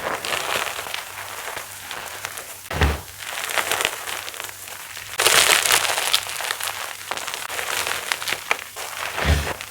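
Pasted gym chalk being crushed: dense crunching and crackling made of many small cracks. The loudest crunching comes about halfway through, and two dull thumps fall about three seconds in and near the end.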